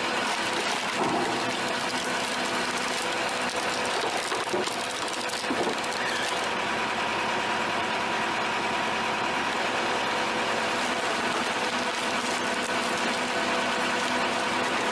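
A machine running steadily, a constant mechanical whir with a few steady humming tones.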